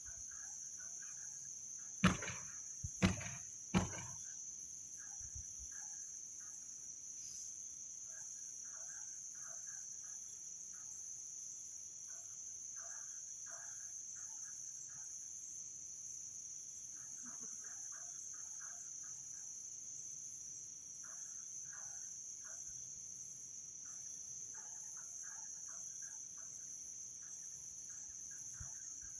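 Crickets keep up a steady high-pitched chorus, with faint scattered short chirps beneath it. Three loud sharp knocks come about a second apart, two seconds in.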